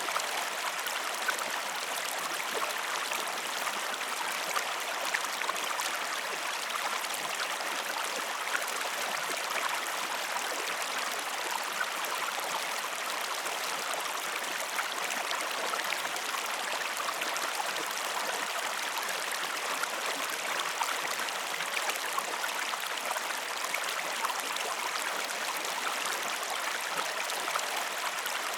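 River water flowing steadily, a constant rushing with fine trickling and splashing detail.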